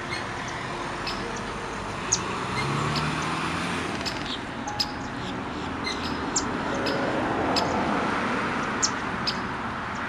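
Birds giving short, sharp high chirps every second or so over a steady rushing background noise.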